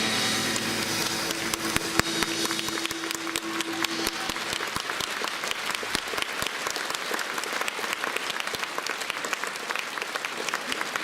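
Audience applauding with dense, irregular clapping at the end of a song. The band's last held chord dies away during the first four seconds.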